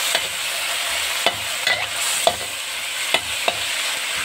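Marinated meat slices sizzling in hot oil in a wok, with a steady frying hiss. A spatula stirring the meat knocks against the pan several times.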